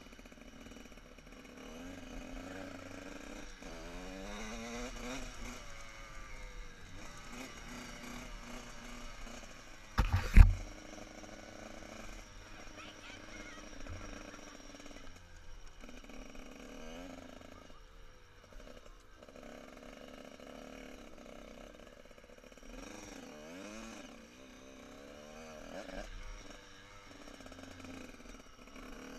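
Motocross bike engines revving, their pitch rising and falling repeatedly as the bikes race. A single loud thump comes about ten seconds in.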